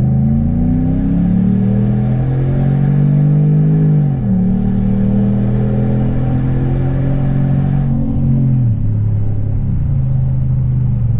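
2016 Ram 1500's 5.7-litre Hemi V8 under a full-throttle pull, its pitch climbing through a gear and dropping at a quick, firm upshift about four seconds in, the shift points firmed up by a transmission tune. It climbs again more slowly, then the throttle comes off near eight seconds and the revs settle to a steady cruise.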